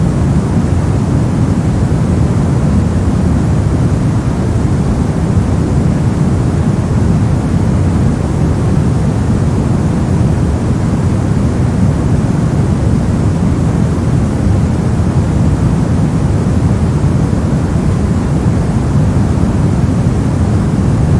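Steady, unchanging white noise, weighted toward the low end so it sounds deep rather than hissy.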